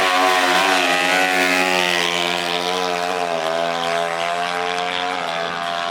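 An off-road racing engine held at high, fairly steady revs, its pitch wavering and sagging slightly before levelling out.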